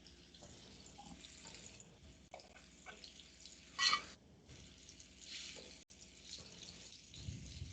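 Breaded chicken frying in oil in a frying pan, a steady faint sizzle with small crackles. A short, louder sound comes about four seconds in.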